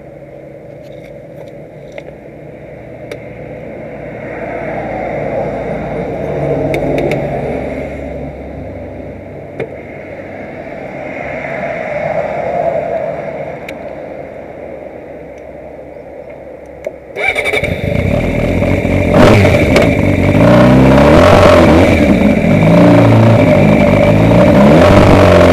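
Motor vehicle engines in traffic, swelling and fading as vehicles pass. About two-thirds of the way in the sound jumps abruptly to a much louder engine noise, with rising and falling pitch, that stays loud.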